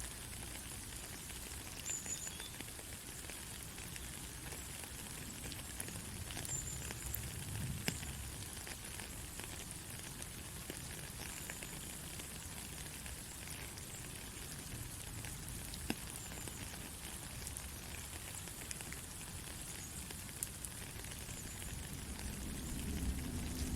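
Steady rain falling, a fine even hiss with scattered drop ticks. Faint short high chirps come now and then, and a low rumble swells near the end.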